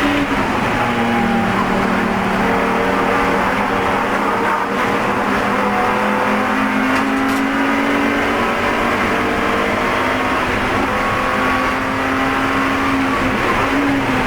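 BMW Spec E46 race car engine under hard load, heard from inside the car, its pitch climbing and dropping several times as the driver works through gears and corners, with steady wind and road noise.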